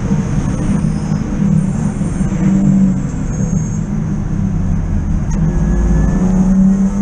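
BMW 323i E36 race car's 2.5-litre straight-six engine running hard at speed, a loud steady drone heard from inside the cabin.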